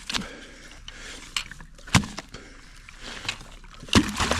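Hard knocks and scrapes as frozen ice is broken loose from a birds' water container: sharp strikes about every two seconds with fainter scraping between, and two strikes close together near the end.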